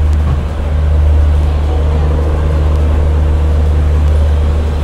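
Passenger train pulling slowly into a station, heard from an open coach doorway: a loud, steady low rumble with no change in pace.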